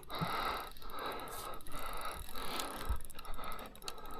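Fishing reel being wound in, a rhythmic mechanical grinding that pulses about once every three quarters of a second with each turn of the handle.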